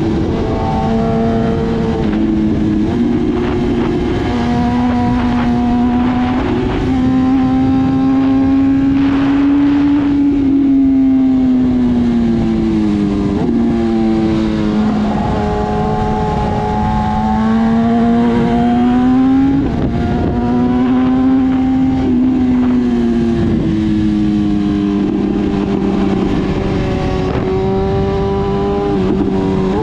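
BMW S1000RR's inline-four engine under way, its note climbing and dropping repeatedly with throttle and gear changes, over a steady rush of wind noise.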